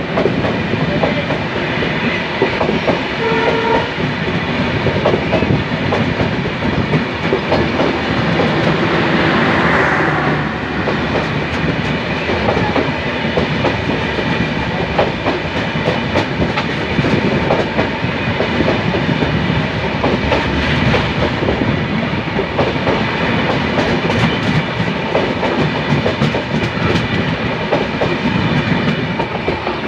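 Two Bangladesh Railway intercity passenger trains passing each other at speed on adjacent tracks, heard from an open coach doorway: a loud, continuous rumble with the rapid clickety-clack of steel wheels over rail joints.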